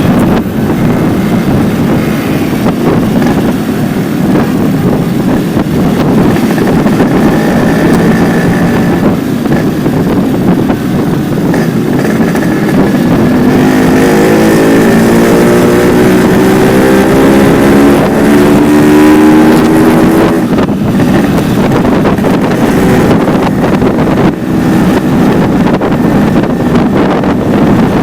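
Yamaha RX-King's two-stroke single-cylinder engine running through a stock exhaust silencer left with only its screen, giving a loud, raw exhaust note. Past the middle the engine pitch climbs for several seconds as it accelerates, then drops off about twenty seconds in.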